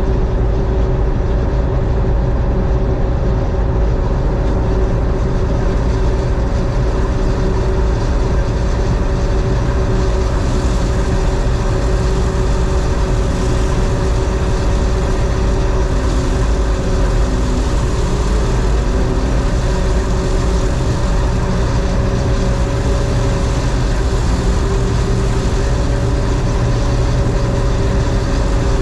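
John Deere 4400 combine running steadily while harvesting soybeans, its engine and threshing machinery making a constant heavy drone with a steady hum, a little more hiss from about ten seconds in.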